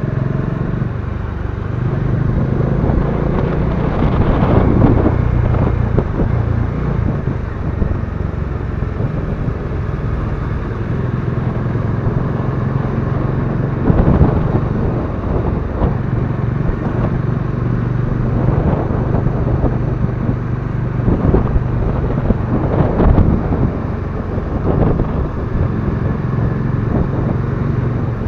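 Motorcycle engine running steadily, with a few brief louder swells.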